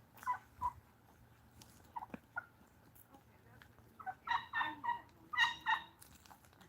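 Wild turkey gobbling twice in quick succession, each gobble a fast rattling run of notes, about four seconds in. A few short, soft turkey calls come before the gobbles.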